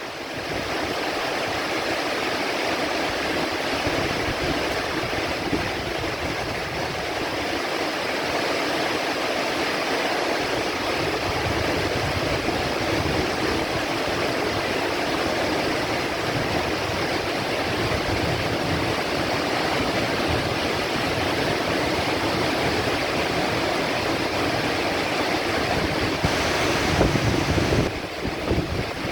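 Heavy rain falling in a steady, even hiss. A low rumble swells briefly near the end.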